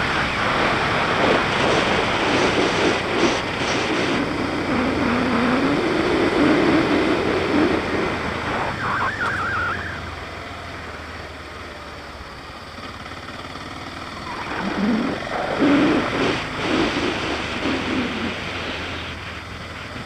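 BMW G650GS single-cylinder motorcycle engine running under way, its pitch rising and falling with the throttle over a steady rush of wind. About halfway through it backs off and quiets for a few seconds, then pulls again.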